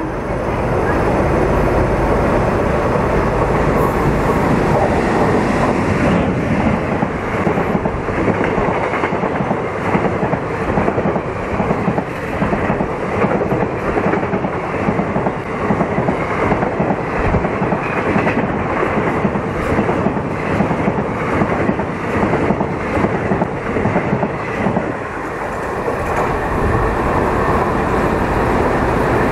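Express train hauled by a WAP-7 electric locomotive passing close at speed: a steady rushing rumble of the coaches with rapid clicking of wheels over rail joints, easing briefly near the end.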